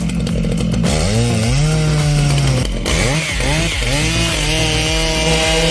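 Stihl MS 880 two-stroke chainsaw revving up and down several times after about a second of rapid rattling idle, then held at a steady high pitch near the end.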